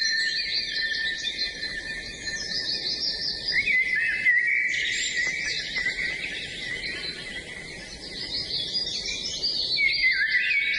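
Several songbirds singing at once: a dense chorus of overlapping chirps and quick trills.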